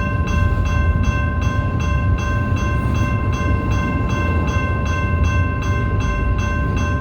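BNSF freight train rolling past with a heavy low rumble. Over it runs a steady high ringing tone, and faint regular ticks come about three times a second.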